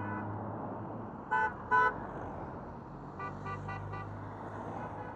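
Two short vehicle horn toots over a steady low engine hum, followed by a few fainter short pitched bursts.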